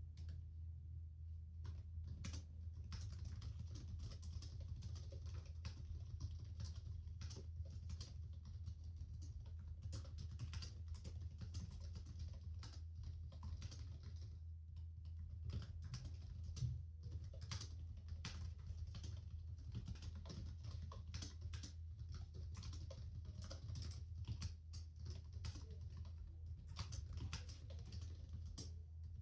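Continuous typing on a computer keyboard: quick, irregular key clicks with a brief pause about halfway through, over a steady low hum of office background noise.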